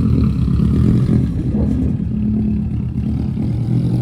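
A car engine running steadily at low revs.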